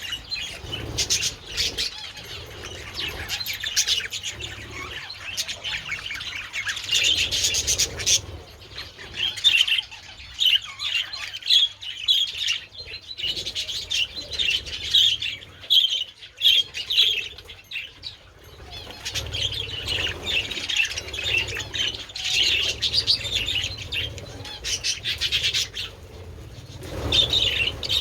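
A flock of budgerigars chattering continuously, many birds chirping and warbling over one another.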